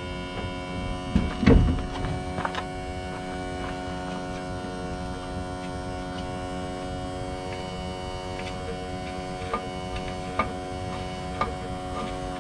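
Electric fuel pump running with a steady hum while it is primed to draw fuel from a tank that has lost its siphon. A loud knock comes about a second and a half in, and a few sharp clicks follow later.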